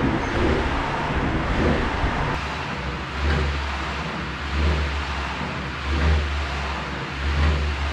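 Canoe ergometer's air flywheel whooshing under hard paddling, with a low rumble that surges with each stroke about every one and a half seconds. It stops suddenly near the end as the set finishes.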